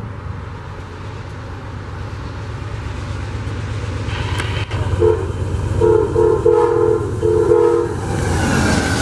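Amtrak GE Genesis P42DC diesel-electric locomotive approaching, its engine rumbling and growing louder. About halfway through it sounds its multi-chime horn in about four blasts, and near the end the rush of wheels and passenger cars passing close by takes over.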